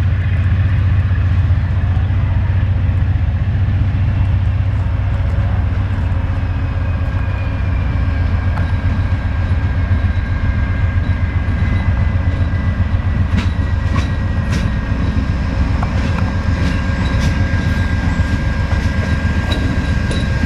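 Train rolling past with a steady heavy rumble and a few wheel clicks. A thin, steady high-pitched squeal, typical of wheels squealing against the rail, holds through the second half.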